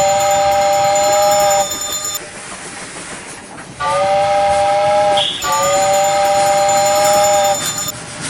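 Two long whistle blasts, each about two seconds, with a short slide in pitch at the start, a pause of about a second and a half between them, and faint hiss in the gap.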